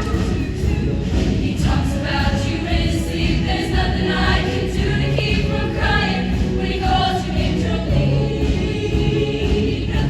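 Show choir singing in full voice over a steady instrumental accompaniment.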